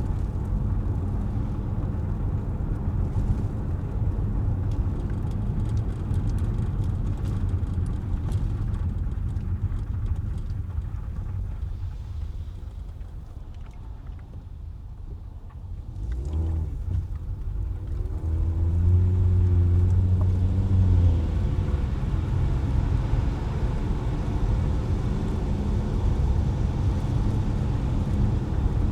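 Car engine and road noise heard from inside a moving car: a steady low rumble that eases off about halfway through, then picks up again as the engine note rises with acceleration.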